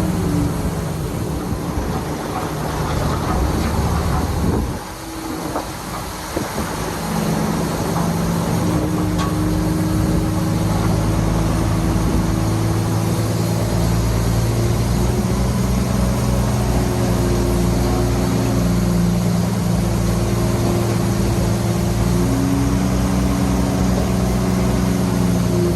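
Heavy diesel engine of earthmoving machinery running steadily at constant speed, with a brief dip in level about five seconds in.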